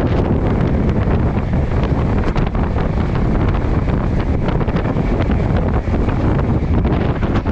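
Passenger train running at speed: a loud steady rush of wind and running noise, with many quick clicks and rattles from the wheels and carriage.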